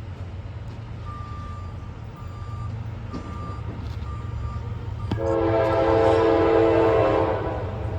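An approaching CSX freight locomotive, a rebuilt GE AC44 (CM44AC), sounds its multi-chime horn in one blast of about two seconds, starting about five seconds in, over the steady low rumble of the train. Earlier, a few short beeps on one tone sound about once a second.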